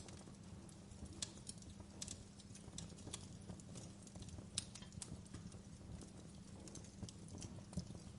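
Wood fire burning in a fireplace: irregular sharp crackles and pops from the burning logs over a low, steady rumble of flame.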